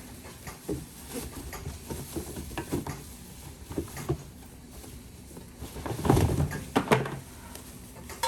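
Scattered light knocks and clatter, with a louder cluster of knocks about six to seven seconds in.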